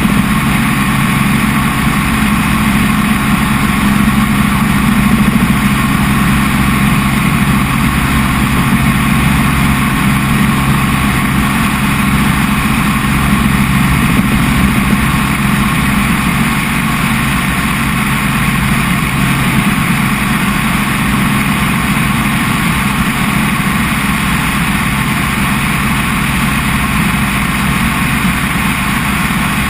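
Helicopter engine and rotor noise heard from on board, loud and steady with no change in pitch.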